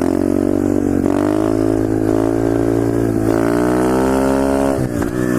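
Pit bike engine revving under throttle as the bike is ridden, its pitch holding, then climbing steadily for a second and a half before dropping off sharply near the end as the throttle is cut.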